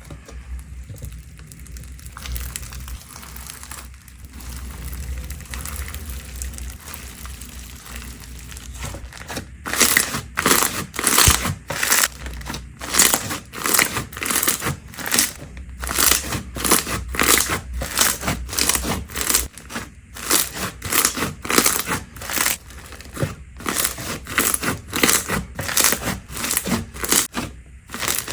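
Slime being handled by hand: a soft rustle at first, then from about nine seconds in, repeated crinkly crackles at about two a second.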